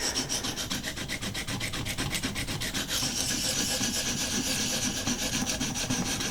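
Abrasive of a Vipersharp guided sharpening system stroked quickly back and forth along a knife's edge: a steady rasping of short, even strokes that gets brighter about halfway through. This is the stage of grinding the edge bevel to raise a burr.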